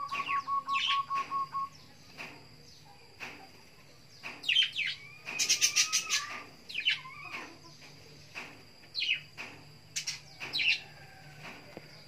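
Caged murai (magpie-robin) calling in several short bursts of sharp, sweeping chirps with quiet gaps between them; the loudest burst comes about halfway through. Over the first two seconds there is also a rapid, even ticking rattle of about eight notes a second.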